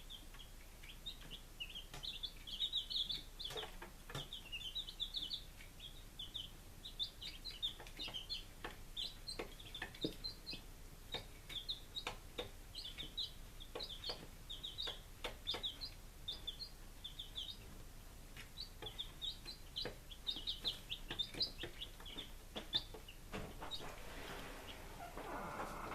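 Baby chicks peeping: a steady stream of short, high chirps, with scattered light taps and a rustle near the end.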